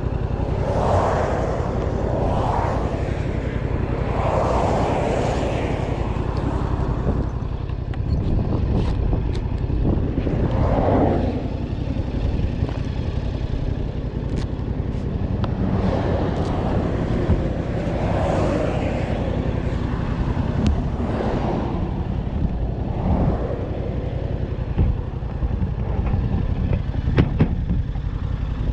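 Motor vehicle running, a steady low engine and road rumble with irregular swells in a higher noise.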